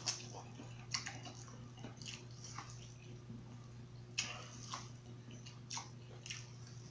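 Close-miked chewing and lip-smacking while eating a seafood boil: irregular wet smacks and clicks of the mouth, the sharpest just after the start, about a second in and around four seconds in. A steady low hum sits underneath.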